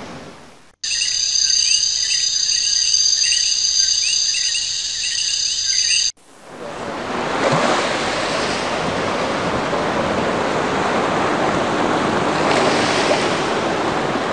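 An insect chorus, several steady high trills with short repeated chirps, stops abruptly after about five seconds. A rush of ocean surf then swells in and washes steadily.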